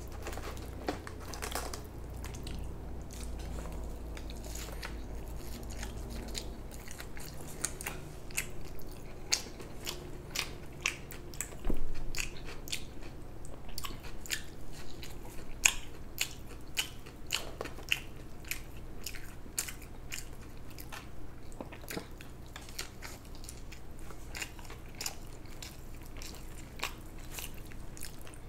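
A person chewing and biting food close to the microphone, with many small crunches and wet mouth clicks, and one louder knock about twelve seconds in.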